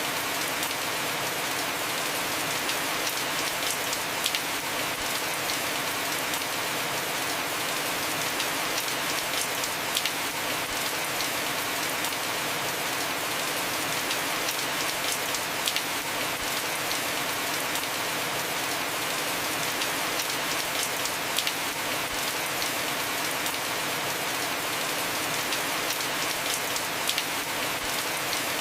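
Heavy rain falling steadily on a house roof, a constant hiss with scattered sharp drop ticks.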